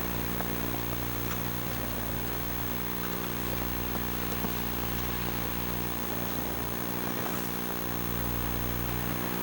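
Steady electrical buzz made of a stack of low hum tones, with hiss above it, in a Sony Handycam Hi8 camcorder recording: an unwanted buzz that is louder than the uploader would like.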